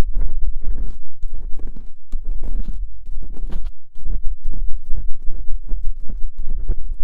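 Ear-cleaning ASMR: an ear pick scraping and tapping inside a microphone's ear, a dense run of crackly scratches and taps with heavy low thuds, broken by short pauses.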